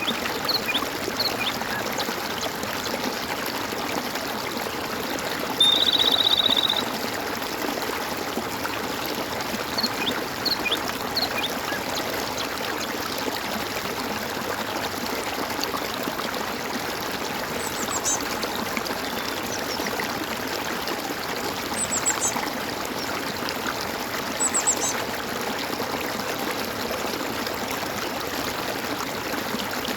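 Water gurgling and trickling steadily, with scattered short high bird chirps. About six seconds in, a loud rapid trill lasting about a second stands out above the water.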